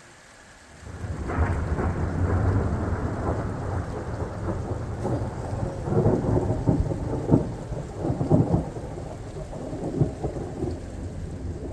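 Thunder rolling in about a second in and rumbling on, with several sharper cracks in the middle before it eases, over steady rain.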